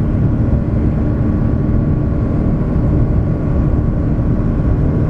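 Cabin noise inside an Airbus A350 climbing after takeoff: the steady noise of its Rolls-Royce Trent XWB engines and the airflow, with a low steady hum running through it.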